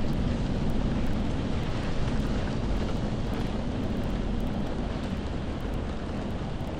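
Steady rain ambience with a deep low rumble underneath, easing slightly toward the end.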